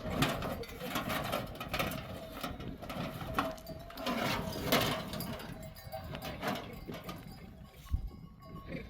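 A flock of sheep and goats on the move, with scattered bleats and a busy clatter of small knocks and clicks.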